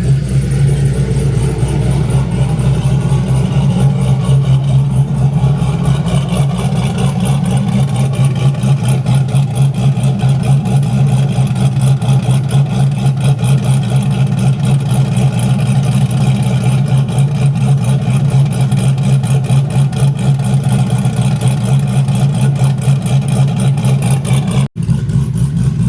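Big-turbo, cammed LS V8 running on E85 idling after a cold start in below-freezing weather, with a choppy, lopey cam idle as it warms up. The sound cuts out for an instant about a second before the end.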